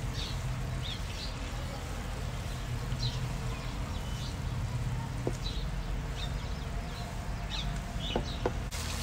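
Birds chirping in short separate calls, about one every second, over a low steady background noise, with a couple of faint knocks of a ladle against the pot.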